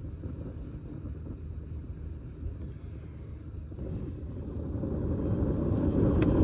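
Kettle of water over a campfire coming to the boil: a low, steady rumble that grows louder over the last few seconds, with a few faint crackles from the fire.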